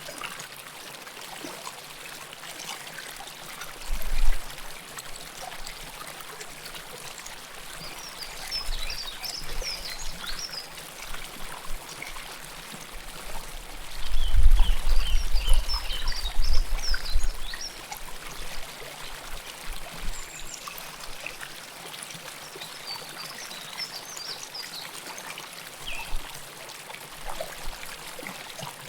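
River water flowing and trickling in a steady rush, with scattered bursts of short high chirps. A low rumble comes in briefly a few seconds in and again, loudest, around the middle.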